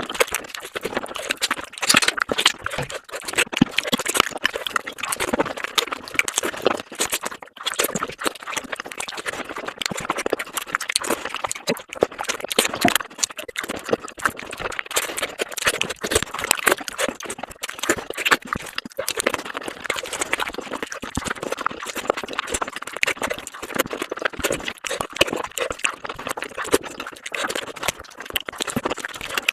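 Close-miked eating of fish curry and rice: dense, irregular wet chewing and mouth clicks, several a second, going on throughout.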